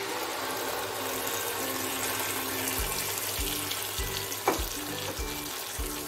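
Onion-cashew-raisin paste sizzling as it goes into hot ghee and oil in a frying pan, stirred with a wooden spatula, with one sharp tap about four and a half seconds in. Background music with a steady beat comes in about three seconds in.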